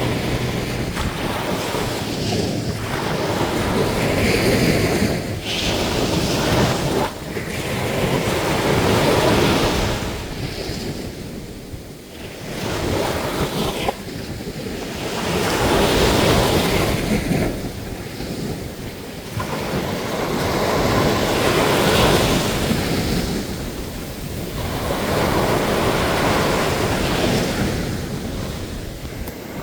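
Sea waves breaking on a sandy beach, each swelling to a wash and falling back, about every five or six seconds.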